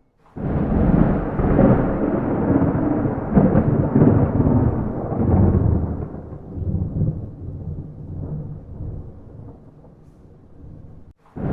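Thunder without rain: a clap that starts suddenly about half a second in and rolls on as a deep rumble for several seconds, then slowly fades. It cuts off sharply near the end, just as the next roll of thunder begins.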